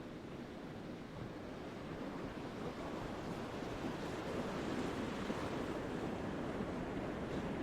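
Ocean surf washing onto a beach, a steady rush that swells louder about a third of the way in as a wave comes in.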